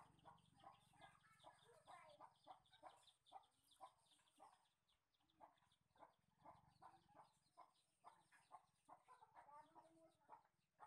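Near silence, with faint, short bird calls repeating rapidly in the background.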